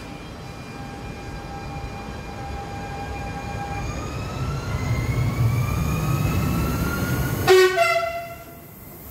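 SNCF Régiolis multiple unit pulling away: the whine of its traction motors rises in pitch as it accelerates, over a low rumble that grows louder. A short, loud horn toot comes about seven and a half seconds in.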